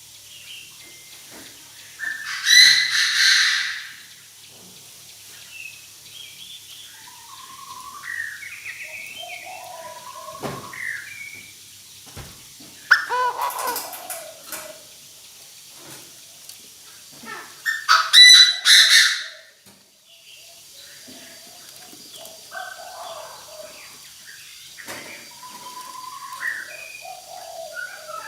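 Decoy Chinese francolin calling to the flock: three loud calls spread through, each a second or two long, with softer short chirps and notes between them.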